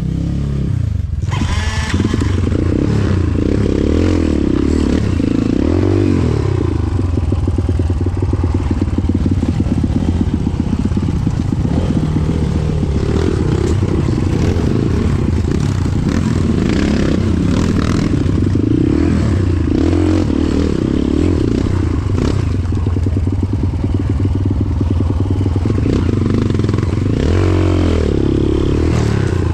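Motorcycle engine running under way, its revs rising and falling again and again.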